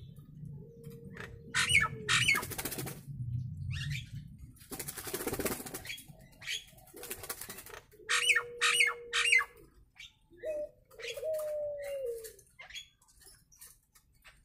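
Nias hill myna calling: low steady whistles each held about a second, loud sharp calls between them, a harsh rasping burst about five seconds in, and falling whistles near the end.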